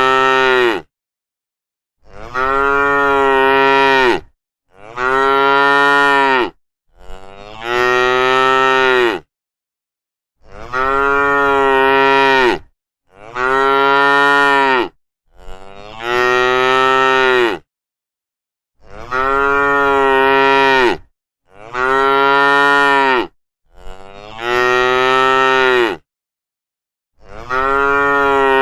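Cow mooing, about a dozen long moos of steady pitch, each about two seconds, the same call over and over with dead silence between them.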